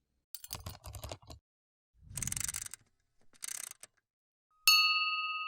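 A quick run of clattering clicks and two short rasping sweeps, then a single bell ding near the end that rings on and slowly fades.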